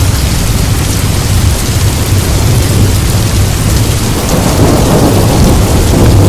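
Steady heavy rain with low rolling thunder, the rumble swelling about four seconds in.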